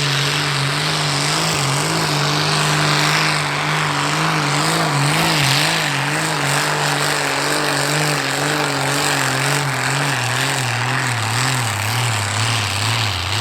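Continental AVI-1790-8 V12 tank engine (29.4 litre, about 1000 hp) in a pulling tractor, running hard at high revs under full load while dragging the sled. Its pitch wavers slightly but holds high throughout.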